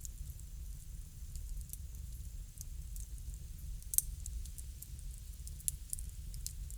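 Bonfire crackling: scattered sharp pops over a low steady rumble, with one louder pop about four seconds in.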